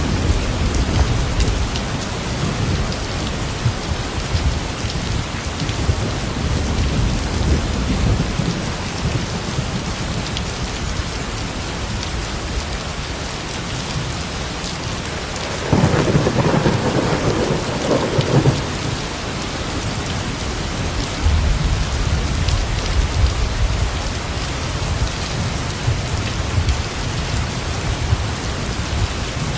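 Steady heavy rain falling, with low rolls of thunder coming and going. A louder, sharper thunderclap rolls for a couple of seconds about halfway through.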